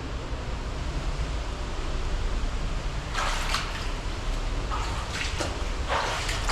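Steady rush of falling water from a waterfall, with a run of short, sharp noises starting about three seconds in.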